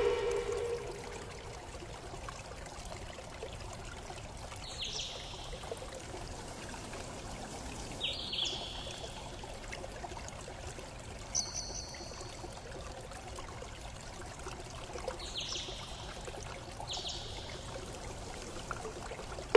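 Steady running water, like a trickling stream, with a bird giving short, falling high chirps five times, a few seconds apart.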